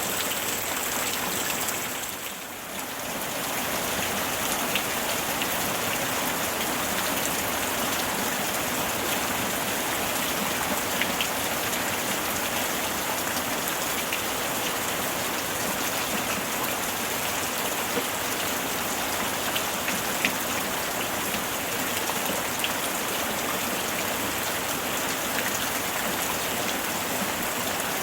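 Steady summer rainfall with scattered individual drops ticking on a surface. About two seconds in, the sound briefly dips and then returns.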